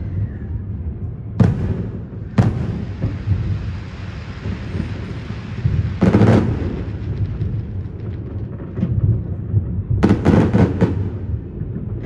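Fireworks going off: single sharp bangs about a second and a half and two and a half seconds in, a heavier bang about six seconds in, and a rapid run of bangs near the end, over a continuous low rumble of more distant fireworks. A crackling haze trails after the second bang and fades over several seconds.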